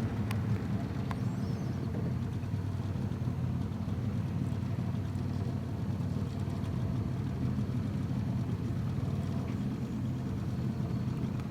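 Small boat's outboard motor running steadily, the boat under way at constant speed.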